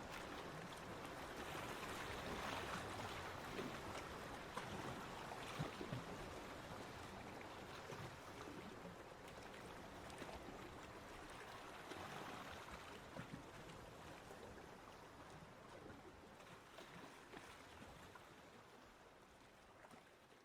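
Waves washing on a beach, a steady rushing hiss with slow swells, gradually fading out.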